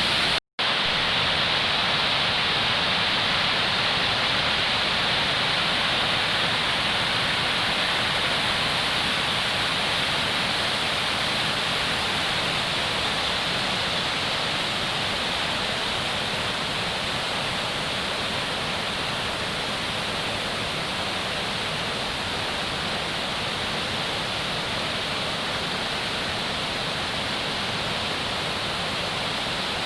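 Waterfall rushing steadily. The sound cuts out for a split second about half a second in.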